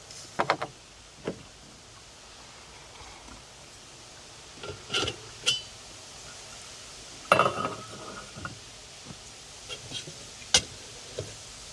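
Metal cookware and utensils being handled: scattered clinks and knocks, the loudest about seven seconds in, where one strike rings briefly.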